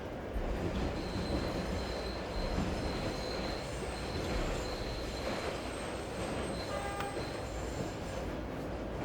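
Train running past with a high, steady squeal of wheels on rails for a few seconds, over a continuous bed of rain and low rumble. A short pitched beep sounds about seven seconds in.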